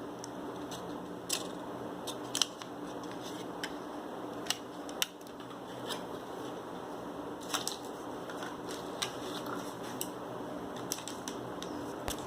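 Snack packaging being handled: scattered sharp clicks, taps and crinkles, a dozen or so at uneven intervals, over a steady low hum.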